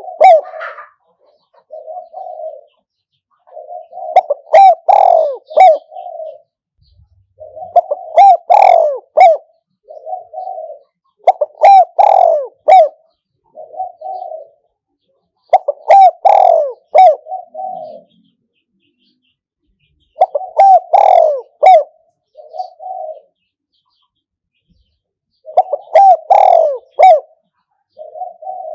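Spotted dove cooing, a caged decoy bird calling to lure wild doves. Its cooing phrase repeats about every four seconds: a quick cluster of several coos followed by one shorter coo.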